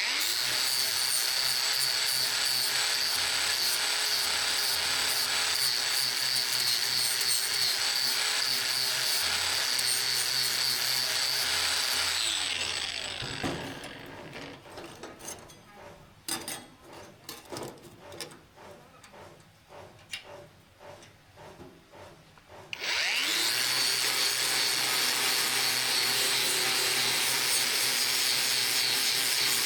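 Electric power tool grinding the steel of an old saw blade, running steadily with a high whine. About twelve seconds in it is switched off and its whine falls as it winds down, followed by about ten seconds of knocks and clicks from handling. It starts again about 23 seconds in and winds back up.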